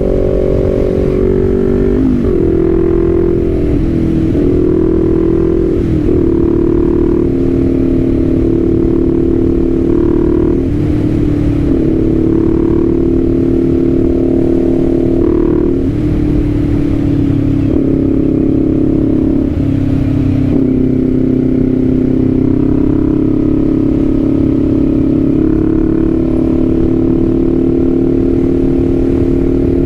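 Kawasaki Z400's parallel-twin engine running on the road. Its loud, steady note breaks briefly and settles at a new pitch several times.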